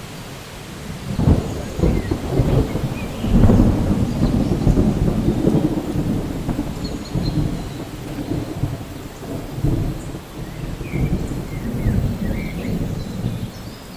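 Rain falling steadily with thunder rolling through, its low rumble building about a second in and loudest around three to four seconds in before rumbling on more softly.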